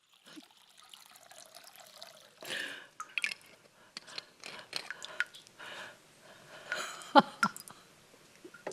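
Scattered light clicks and knocks of small objects being handled, with a few short soft rustles between them.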